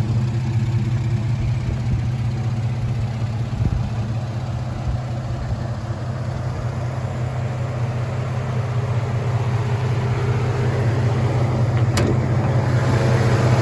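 A 4.3-litre V6 idling steadily in a pickup truck. There is one brief click about twelve seconds in.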